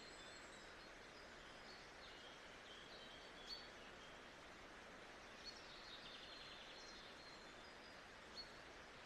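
Faint nature ambience: a steady hiss with scattered high bird chirps and short trills, and a few brief ticks about three and a half, five and a half and eight and a half seconds in.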